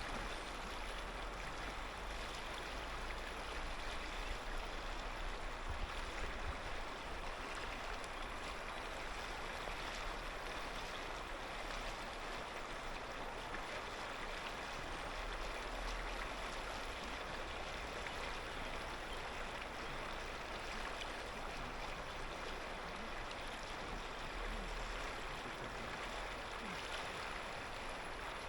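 Clear mountain river flowing over stones: a steady, even rush and murmur of running water.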